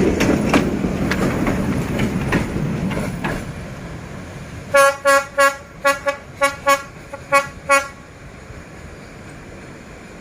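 Train running past with a rhythmic clicking of wheels over rail joints, fading away over the first few seconds. Then a D11H diesel locomotive's horn sounds a quick run of about nine short toots.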